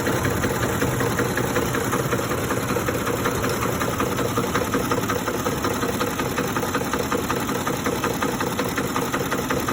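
2007 Ford F-150's 5.4L 3-valve Triton V8 idling roughly with a steady, rapid rattling knock, like an old rattling diesel. This is the rough idle that sets in after about 20 minutes of driving, even with a new timing chain and tensioner, plugs, coils and VCT solenoids fitted.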